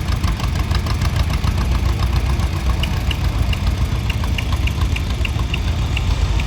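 Farm tractor engine idling with a steady low rumble, and a light regular tick about three times a second.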